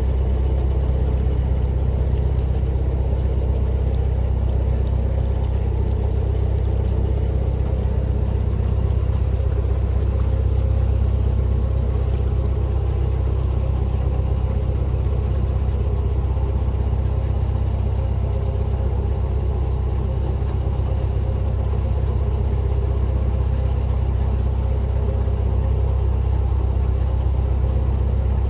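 Narrowboat's inboard diesel engine running steadily under way, a low, even drone.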